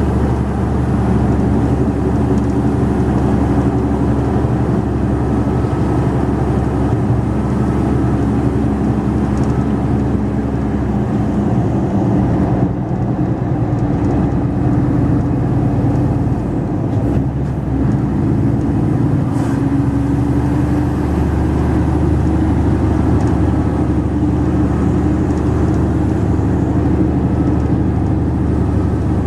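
Mercedes-Benz Actros 2546 truck's diesel engine running steadily under way, its low note shifting for a few seconds around the middle.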